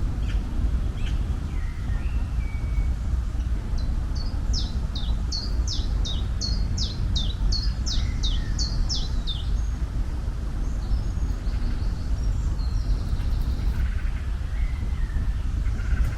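A songbird singing a run of about fifteen quick, high, downward-sweeping notes, roughly three a second, a few seconds in, with a few fainter chirps around it. Under it runs a steady low rumble of outdoor ambience.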